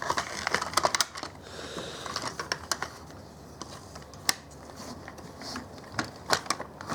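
Plastic toy race-track pieces being handled and fitted together: a quick run of sharp clicks and rattles in the first second, then scattered single clicks.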